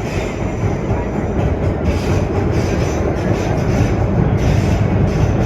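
Vintage R1-9 subway train heard from inside the car while running on the track, a loud, steady rumble of wheels and running gear.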